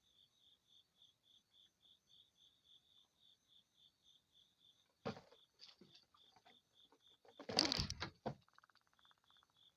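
Cricket chirping steadily at about four chirps a second, broken by a clatter of knocks and rustling about five seconds in and a louder burst of it around seven to eight seconds, followed by a short buzz.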